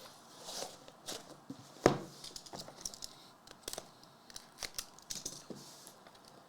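Packaging of a sealed trading card box being torn open and handled: plastic and paper rustling in short bursts, with small clicks throughout and one sharp tap about two seconds in.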